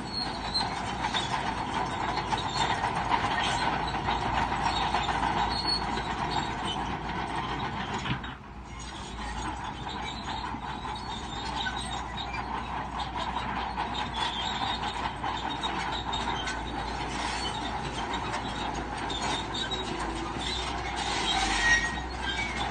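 Crawler bulldozer working: a steady mechanical din of engine and clattering steel tracks, dipping briefly about eight seconds in.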